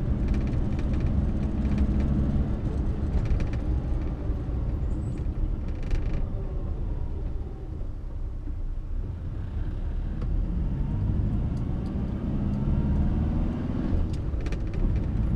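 1962 Morris Minor's four-cylinder A-series engine and road noise heard from inside the cabin while driving. The engine note falls away about halfway through, then rises again as the car picks up speed.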